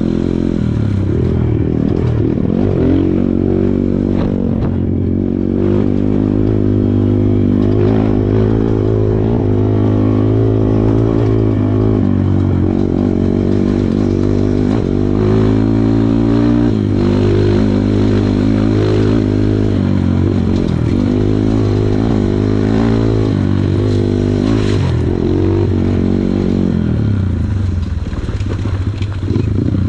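Kawasaki KLX140 dirt bike's single-cylinder four-stroke engine running under constantly changing throttle, its pitch rising and falling again and again.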